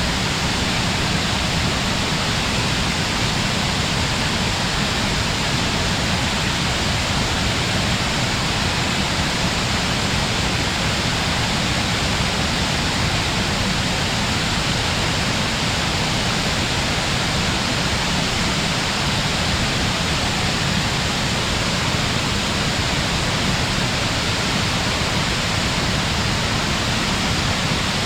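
Fukiware Falls, a broad waterfall on a gorge, with its water falling and rushing in a steady, unbroken roar heard from a distance.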